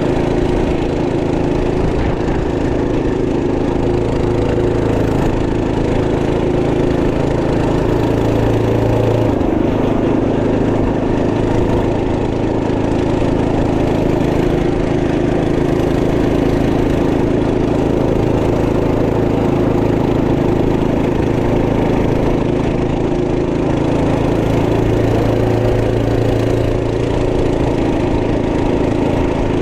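Trail Master MB200 minibike's 212cc single-cylinder four-stroke engine running steadily under way. Its note shifts with the throttle about ten seconds in and again around three quarters of the way through.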